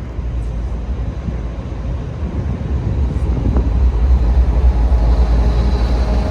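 Freight train passing, a steady low rumble that grows a little louder about two-thirds of the way through.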